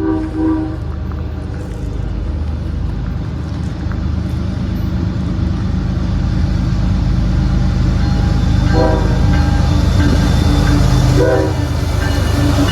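A train approaching on the railroad line, its low rumble growing steadily louder. Its horn sounds a short blast at the start, two more about nine and eleven seconds in, and a longer one near the end.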